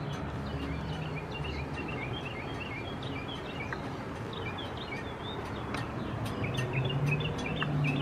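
Small birds chirping in quick, high twittering phrases, over a steady low hum and faint clicks from trackside railroad signal equipment.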